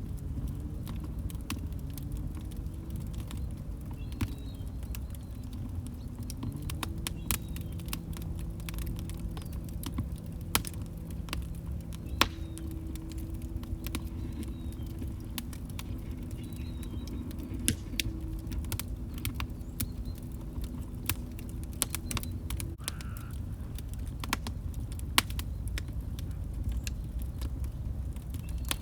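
Wood log fire crackling, with frequent sharp pops over a low rumble. A faint low wavering tone runs underneath and stops about three-quarters of the way through.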